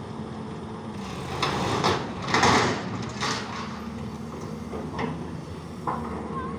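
Heavy diesel machinery running steadily. Loud scraping and grinding bursts come about one and a half to three seconds in, and short clanks follow a few seconds later.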